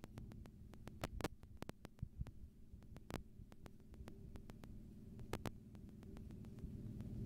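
Train running, a low rumble and hum with many sharp clicks and rattles, growing louder toward the end.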